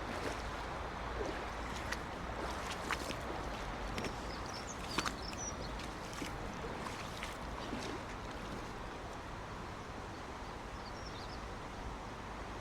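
Steady rush of a small stream's running water, with scattered light ticks and a couple of faint high chirps.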